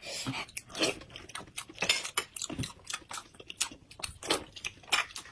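Close-up mouth sounds of eating soft glutinous rice balls: wet chewing and smacking, heard as many short irregular clicks.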